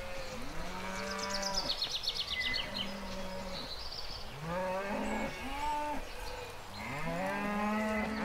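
Several cattle mooing one after another, their calls overlapping, with a longer, louder moo building near the end.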